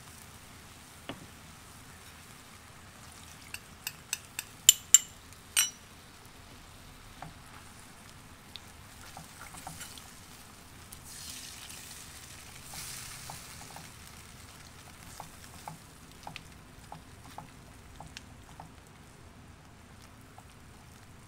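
Chicken and leek in a thickening sweet sauce sizzling in a wok as a spatula stirs and scrapes through it, with scattered small clicks. A quick run of sharp taps against the pan, about four to six seconds in, is the loudest sound.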